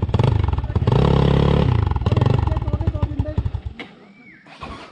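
Dirt bike engine revving hard in repeated bursts, its pitch climbing and falling. The engine sound drops away sharply near the end, leaving one short burst.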